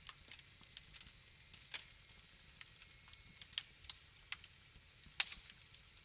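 Wood fire crackling: irregular sharp pops and snaps over a faint steady hiss, the loudest pop about five seconds in.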